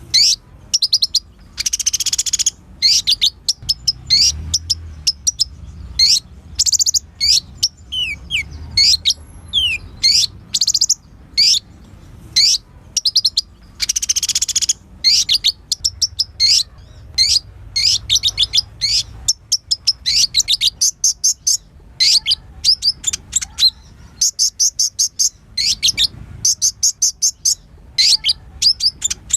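Kolibri ninja sunbird singing a fast, unbroken string of high, thin chirps and twittering trills. Louder buzzy trill phrases come about 2 seconds in and again around the middle, and runs of rapid repeated notes come near the end.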